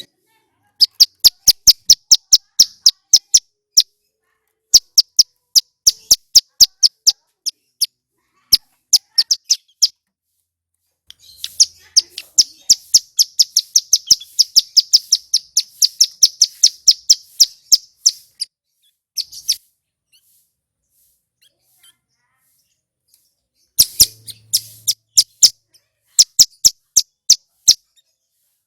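Male ciblek gunung (a mountain prinia) singing loudly: runs of sharp, high chips in quick succession, one long rapid run in the middle, then a pause and another short burst near the end.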